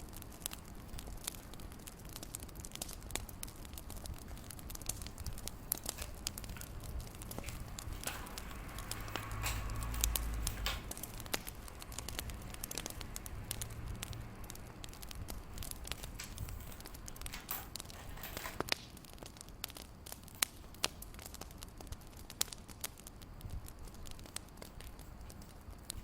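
Wood fire crackling, with irregular sharp pops over a soft steady hiss and a brief low rumble about ten seconds in.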